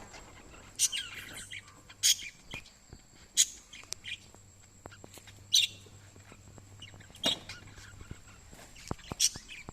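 Small pet parrots giving short, high-pitched chirps, about six in all, spaced one to two seconds apart, with faint clicks between them.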